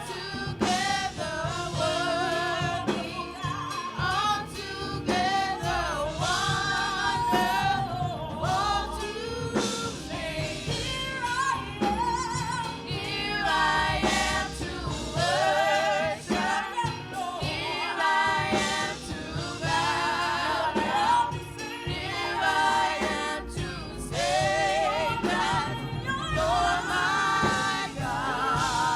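Gospel worship music: singers holding wavering notes with vibrato over a continuous band accompaniment.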